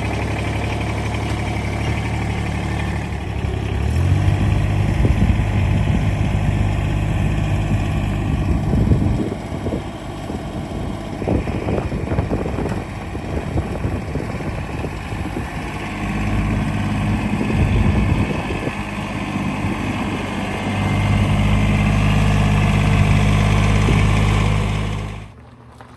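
Vehicle engine running, its pitch and loudness rising and falling in steps as it revs up and settles back. It stops suddenly near the end.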